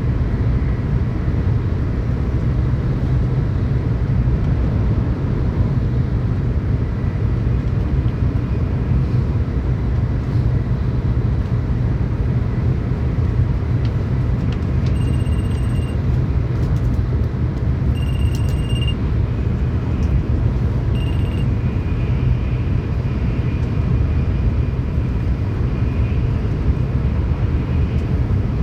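Steady low rumble of a Tokaido Shinkansen train running at speed, heard inside the passenger car. Three brief high-pitched tones sound a few seconds apart around the middle.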